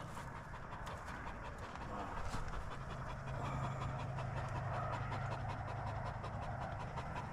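A dog panting, with a low steady hum joining in about three seconds in.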